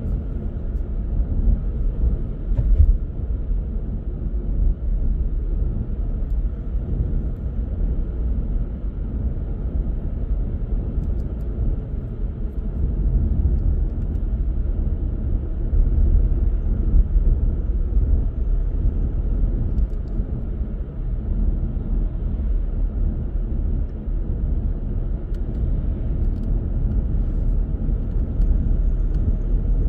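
Car driving along a road: a steady low rumble of engine and tyre noise, with a brief louder bump about three seconds in.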